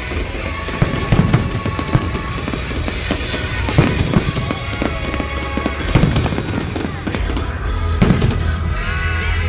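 Festive fireworks display: many bangs and crackling bursts in quick, irregular succession, with music playing along.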